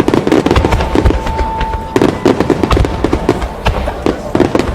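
Fireworks display going off in rapid, dense succession: a continuous string of sharp bangs and crackles with no break, plus a brief steady tone about a second in.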